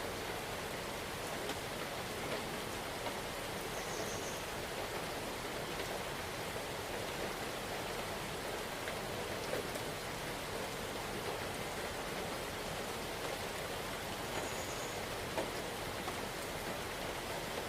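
Steady rain falling, an even hiss with scattered individual drops ticking. Twice a faint, brief high note sounds over it.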